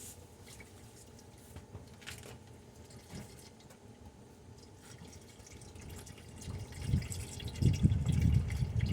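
Engine oil draining from the oil pan into a drain pan, a faint steady dripping and trickling. From about seven seconds in, a much louder, irregular low rumble comes in over it.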